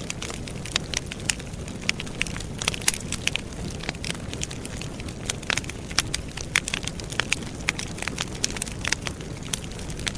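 Outdoor wood campfire burning, its logs crackling and popping in many sharp, irregular snaps over a steady low rush of flame.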